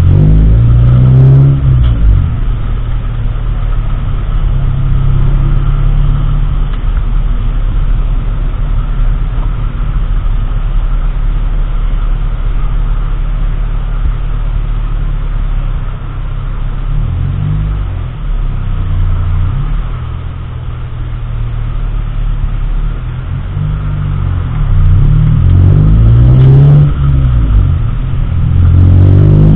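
A car engine and road noise while driving, a steady low drone whose pitch rises and falls as the car accelerates and shifts, most clearly near the start, about two-thirds of the way in, and again near the end.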